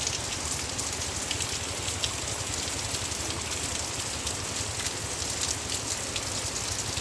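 Heavy rain falling steadily, with a dense patter of drops striking surfaces.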